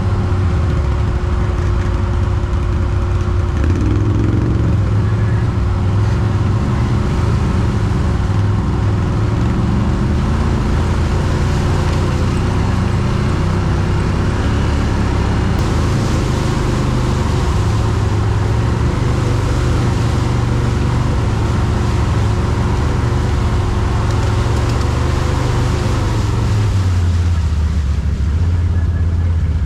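ATV (quad bike) engine running at low revs through the whole stretch, its pitch shifting a little as the throttle changes.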